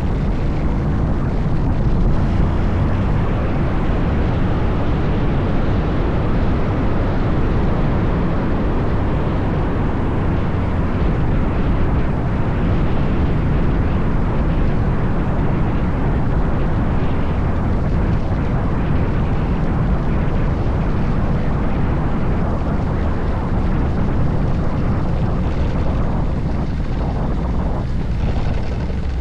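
Honda Forza 750 maxi-scooter riding at speed: steady engine and road noise under heavy wind rushing over the microphone, dropping slightly near the end.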